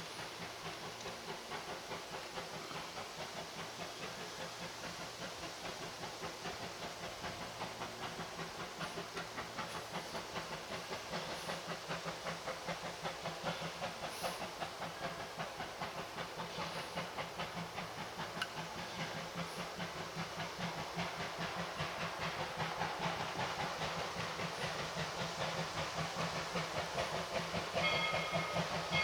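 Two-foot-gauge steam locomotive running with a fast, even beat and steam hiss, growing steadily louder as it approaches. A high, broken tone joins near the end.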